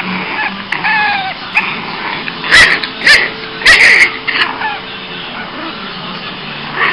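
Boston terrier puppy fussing crankily: short whines, then three loud, sharp yaps around the middle, then quieter whining.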